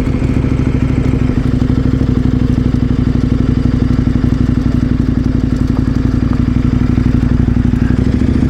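KTM 1090 Adventure R's V-twin engine running steadily with an even pulse, the note neither rising nor falling.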